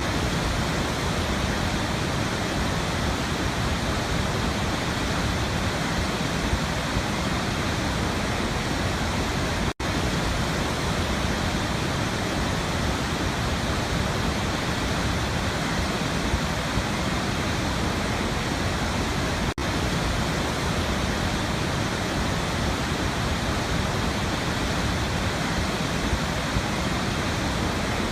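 Waterfall: a steady, even rush of falling water. It drops out for an instant twice, about ten seconds apart.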